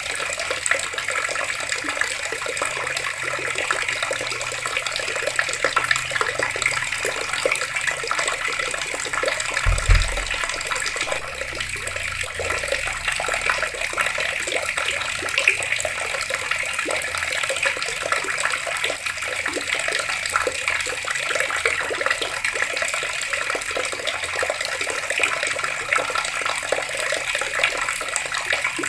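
Water running steadily from taps in a continuous rushing stream, with a single low thump about ten seconds in.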